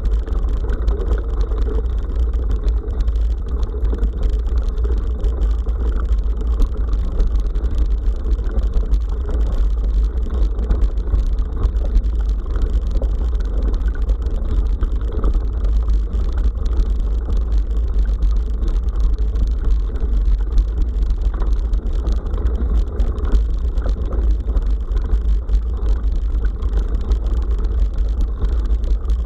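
Steady, unbroken rumble of a bicycle ride on a forest dirt road picked up by an action camera's microphone: wind buffeting the mic, with the tyres rolling over the track underneath.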